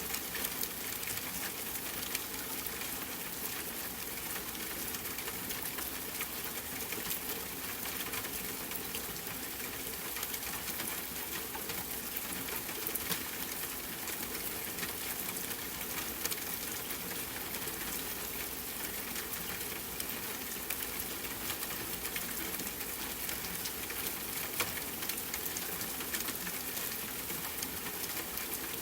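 Steady hiss of rainfall mixed with the soft crackling of a fireplace fire, with occasional sharper pops.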